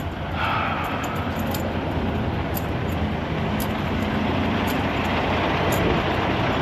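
Semi truck's diesel engine running, with a steady rush of noise that swells about half a second in. Faint light ticks come about once a second.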